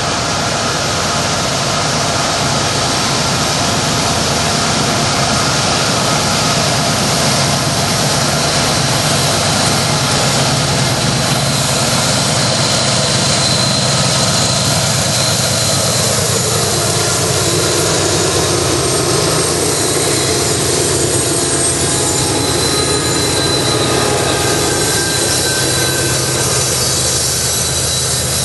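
Norfolk Southern diesel freight locomotives and train working upgrade, a loud steady engine drone with faint high whines above it; a heavy coal train struggling up the grade. A tone in the din drops in pitch about halfway through.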